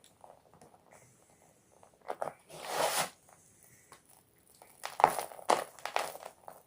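Block of gym chalk being crunched: a few crisp crunches about two seconds in and a longer one just after, then a quick run of loud crunches in the second half.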